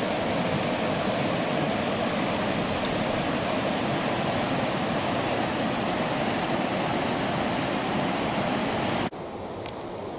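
Creek water rushing steadily. About nine seconds in it cuts off abruptly to a quieter, thinner rush of water.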